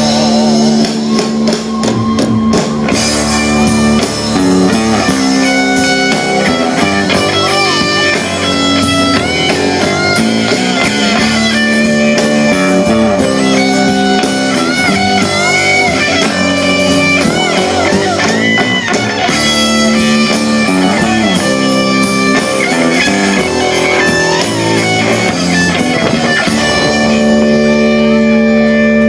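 Live rock band playing an instrumental passage with no singing: amplified guitar leads with bent notes over the band's accompaniment.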